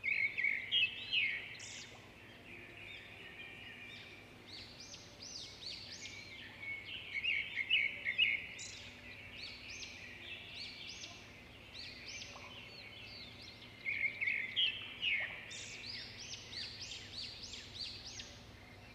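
Birds chirping and calling in repeated bursts of quick, high, falling notes, loudest in three clusters: right at the start, around the middle and near the end. A faint low steady hum runs beneath.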